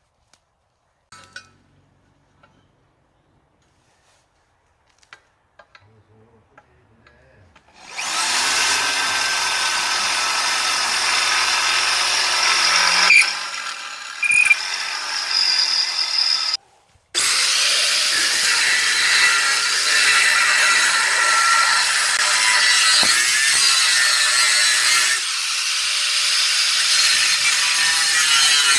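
A few faint clicks, then a power tool starts about eight seconds in and runs loudly under load, cutting with a harsh, hissing noise. It breaks briefly near the middle and restarts with a rising whine.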